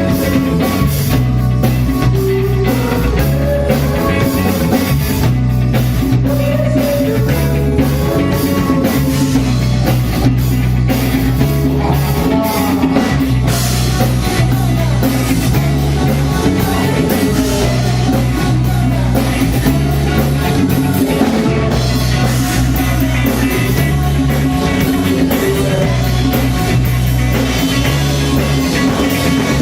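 A band playing during a sound check: drum kit keeping a steady beat under a repeating bass line, with guitar and a melodic line on top.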